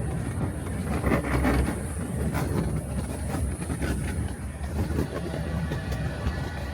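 Redwood Valley Railway miniature train rolling along the track with a steady low rumble, its wheels clicking irregularly over the rail joints.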